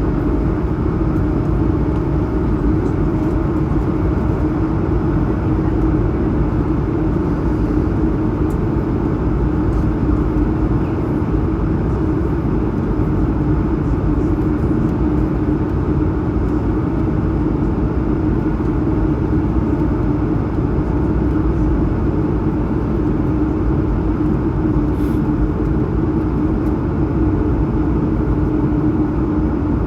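Airbus A220-100 cabin during climb: the steady noise of its Pratt & Whitney geared turbofan engines and rushing air, with a constant low hum running under it.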